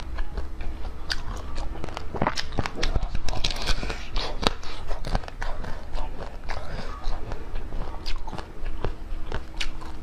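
Close-miked eating sounds of a person biting and chewing food, with many irregular crisp clicks and crunches.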